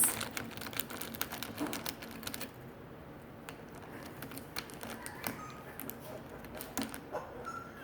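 A parrot clicking and tapping at a toy: a quick, irregular run of sharp clicks that thins out after about two seconds. A couple of faint short chirps come near the end.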